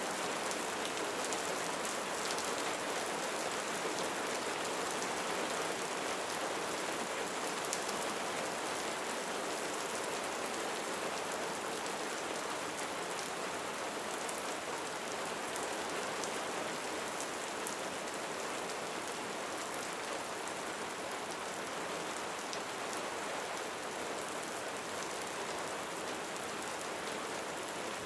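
Steady rain falling on a roof: an even hiss with single drops standing out.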